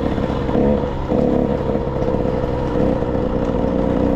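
Motocross bike engine running steadily under throttle, with a brief let-off about a second in before it picks up again.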